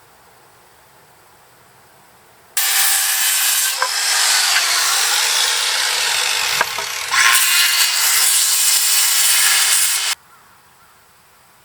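A power saw cutting through wood for about seven and a half seconds, easing briefly just past halfway, then stopping abruptly.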